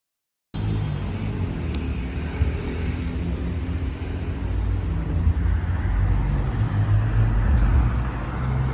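A steady low rumble with constant background noise that cuts in abruptly about half a second in, typical of street traffic ambience.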